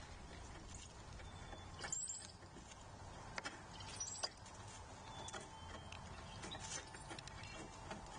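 Faint taps and clicks from animals feeding at a platform feeder, with a couple of brief high bird chirps.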